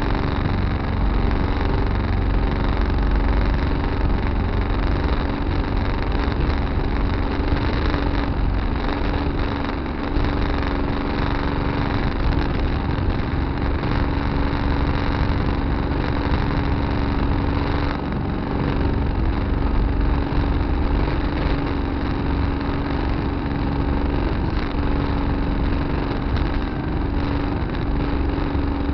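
Tractor engine running steadily at a constant speed, with a steady hum over a deep low drone, heard from a dash camera mounted on the tractor.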